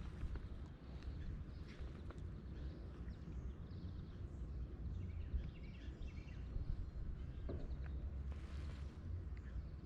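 Outdoor river ambience: a steady low rumble with faint bird chirps.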